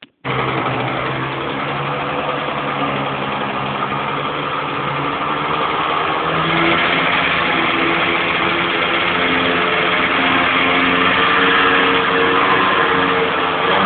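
Rieju P3 Rural motorcycle engine catching and running steadily, its pitch shifting and its level rising slightly about six seconds in: a first start after more than 15 years laid up.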